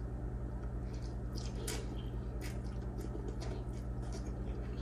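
Soft, wet chewing and mouth clicks of someone eating noodles: a few short scattered clicks over a steady low hum.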